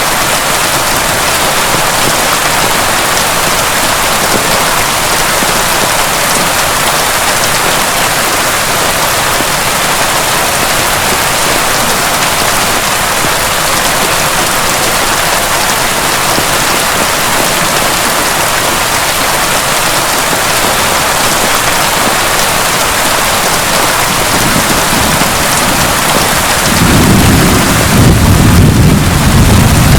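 Heavy rain falling steadily, with a low rumble of thunder rolling in near the end.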